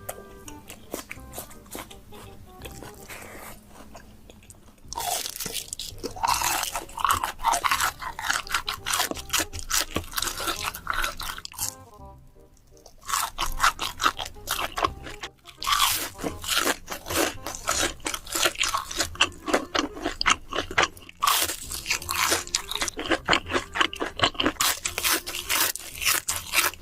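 Close-miked crunching and chewing of crisp food, many rapid crunches in quick succession with a brief lull about halfway, over background music.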